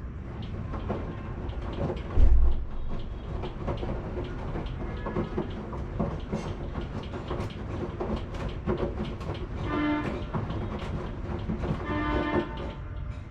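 Washing machine running, its drum tumbling with a steady low rumble and many small knocks, and one heavy thump about two seconds in. Two short pitched hums sound near the end.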